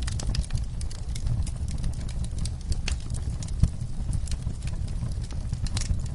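Wood fire crackling in a fireplace: irregular sharp pops and snaps over a steady low rumble, with one louder pop a little past the middle.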